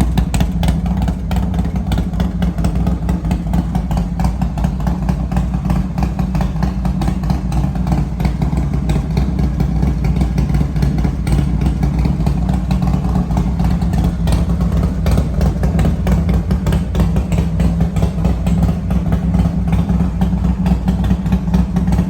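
S&S V111 V-twin engine in a 1987 Harley-Davidson FXRS-SP idling steadily through a Thunderheader two-into-one exhaust, still warming up after a cold start.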